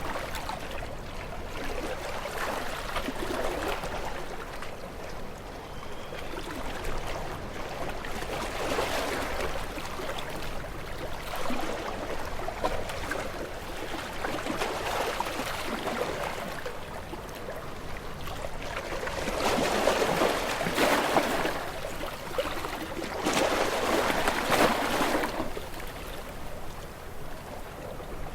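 Small waves washing onto a shore, each swelling and receding in turn every few seconds, the surges stronger in the second half.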